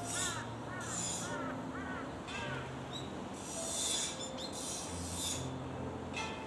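A bird calling in a quick run of short, arching notes, about three a second, which stops about two and a half seconds in. Behind it, a high buzz swells and fades roughly once a second.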